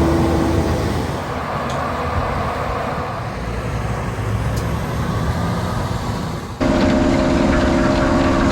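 Heavy diesel farm machinery running with a steady low drone. About two-thirds of the way through it cuts suddenly to a louder machine with a steady hum.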